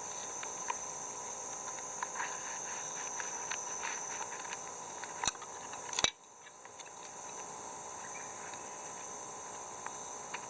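Steady chorus of summer insects with a high, even buzz, with scattered small clicks and two sharp clicks a little past the middle.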